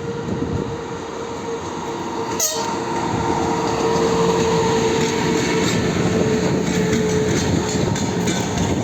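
EP2K electric locomotive hauling a passenger train past, the noise growing louder over the first four seconds and then holding steady, with a steady whine throughout. A single sharp click comes about two and a half seconds in.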